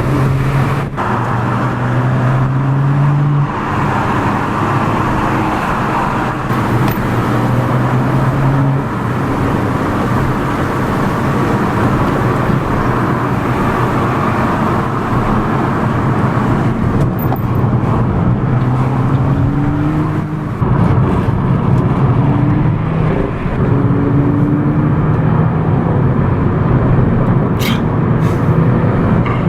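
Car engine and road noise while driving, the engine note rising and falling as it accelerates and changes gear.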